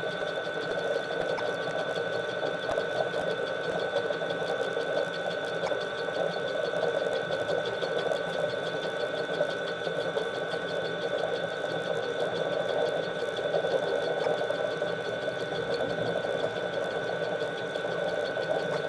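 A small electric motor running steadily, a continuous whir with two steady high whining tones held throughout.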